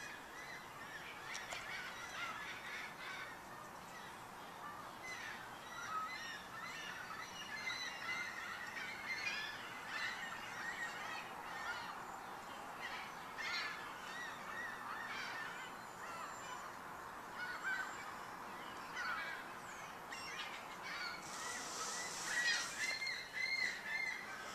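Gulls calling over and over, a string of short harsh squawks. A brief burst of hissing noise comes near the end.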